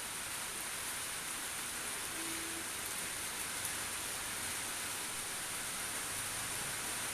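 Steady rain falling, an even hiss that neither builds nor eases: the prolonged rain of a low-pressure system.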